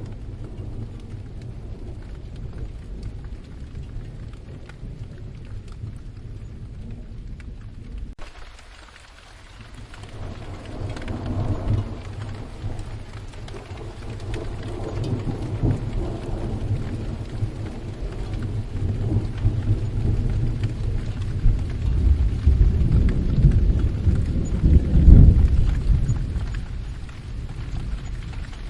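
Steady rain with long, low rumbles of thunder that swell several times and are loudest near the end before easing off.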